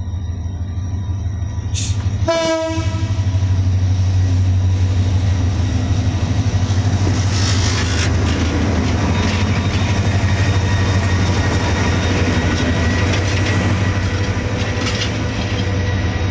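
Diesel-hauled passenger train passing through a station: a short horn blast about two seconds in, then the steady low hum of the locomotive and the rumble and clatter of the coaches on the rails.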